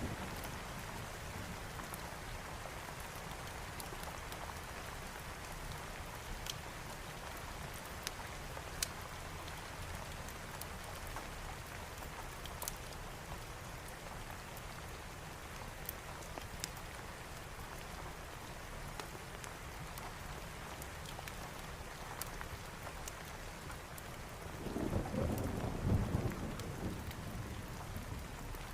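Steady heavy rain with scattered sharp crackles, and a low roll of thunder rising and fading away near the end.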